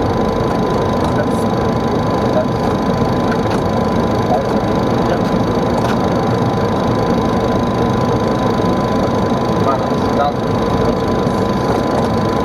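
Steady airflow and engine noise of a Boeing 737 on approach, heard on the flight deck, with a thin steady tone and a few faint crackles over it.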